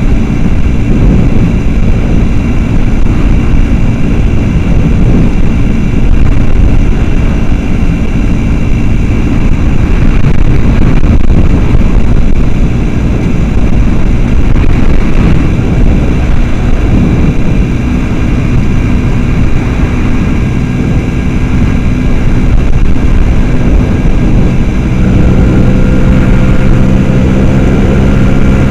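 Small motorcycle engine running under way, heavily mixed with wind rumble on a helmet-mounted microphone; near the end the engine note comes through more clearly and rises slightly in pitch.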